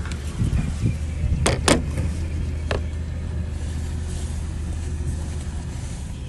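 Diesel engine of a heavy earthmoving machine running steadily with a low drone, with three sharp knocks, two close together about one and a half seconds in and one more near three seconds.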